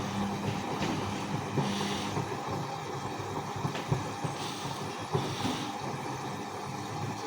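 Vintage Bauknecht WAS 1400 washing machine running through its wash: a motor hum that fades about two seconds in, over a steady drum noise with a few small knocks.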